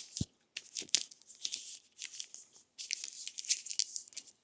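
Adhesive tape being pulled off the roll and wrapped around a bundle of wires in short, irregular tearing rasps, with a few handling clicks.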